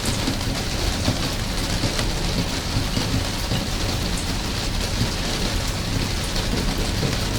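Steady rain falling, with a few individual drops ticking now and then.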